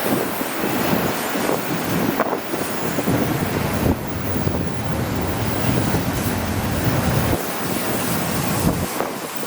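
Freight train of empty auto rack cars rolling past, a steady rumble of wheels on rail with irregular clacks over the joints.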